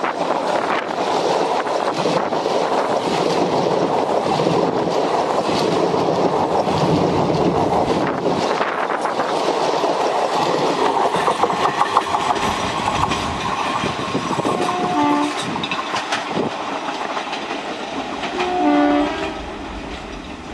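Indian Railways passenger coaches rolling past close by, wheels rattling and clattering over the rail joints, then fading as the train moves away. Two short train-horn toots sound, about 15 s and 19 s in.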